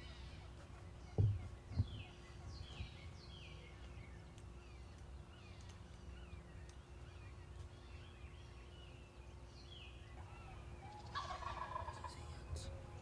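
Wild Osceola turkey gobbler gobbling once near the end, a rattling call from a bird the hunters take for a long beard. Small birds chirp short falling notes throughout, and two low thumps come a little over a second in.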